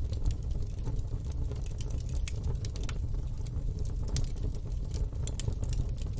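Fire burning in a fire pit, crackling with irregular sharp pops over a low steady rumble.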